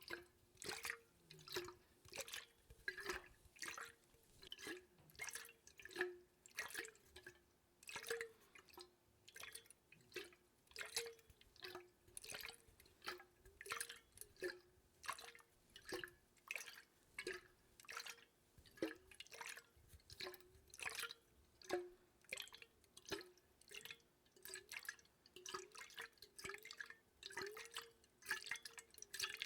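Water drops falling close to the microphone, an even run of soft plinks and plops, about two to three a second.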